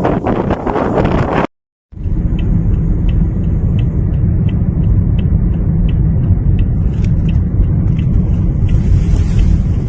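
Wind buffeting the microphone, cut off after a second and a half. After a brief gap comes a steady heavy low rumble like a car's cabin on the move, with a faint regular ticking about three times a second.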